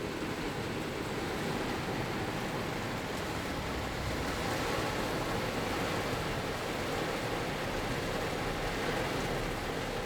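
Rain heard from inside a car's cabin: a steady, even hiss of rain on the car's body.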